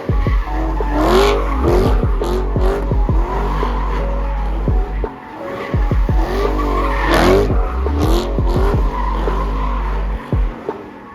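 A car engine revving up and down again and again amid tyre squeal and skidding, as in donuts or burnouts at a street takeover. There are louder surges about a second in and again about seven seconds in.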